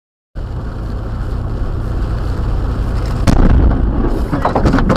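Loud low rumbling noise that starts abruptly and slowly swells, with a sharp crack about three seconds in.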